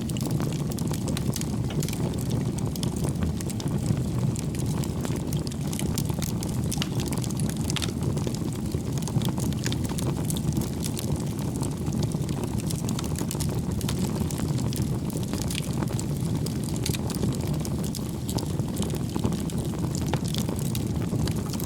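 Wood fire burning in a fireplace: a steady low rumble of flames with frequent small crackles and pops of burning firewood.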